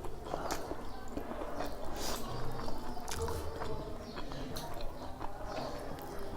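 Close-miked eating sounds: a person chewing and biting food, with irregular soft clicks and smacks from the mouth.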